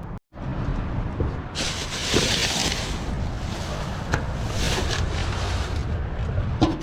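Wind buffeting the microphone as a steady low rumble, with several bursts of rustling hiss.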